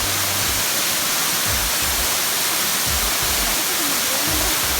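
Steady rushing of a waterfall: an even wash of falling water.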